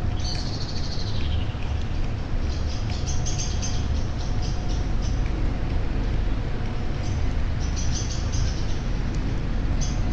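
Birds chirping in short runs of high notes, one call falling in pitch near the start, over a steady low rumble.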